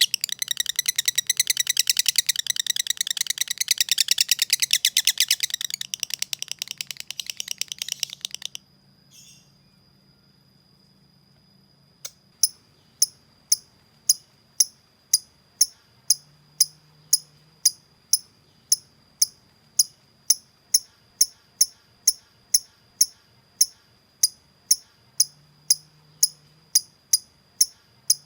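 Lovebird making its long, fast chattering trill (ngekek), which stops about a third of the way in. After a few seconds' pause it begins an even ticking call (ngetik), about two sharp ticks a second.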